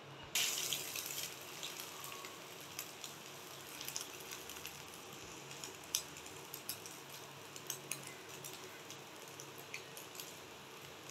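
Egg-dipped stuffed bread slices frying in oil in a pan: a burst of sizzling about half a second in as the slice is turned, fading within a second or so to a faint steady sizzle with scattered small pops.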